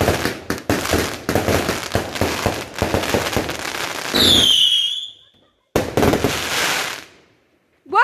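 Consumer fireworks firing in a dense barrage of rapid bangs and crackles for about four seconds. A high whistle then falls in pitch, and one more noisy burst comes about six seconds in.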